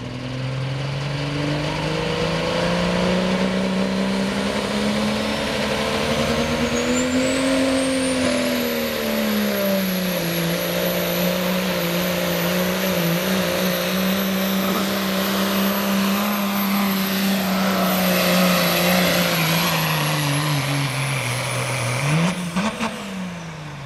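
Dodge pickup truck engine at full throttle pulling a sled, held at high revs for about twenty seconds, its pitch rising, easing and holding. A high whistle climbs over the first several seconds and then holds. Near the end the engine blips once and drops off.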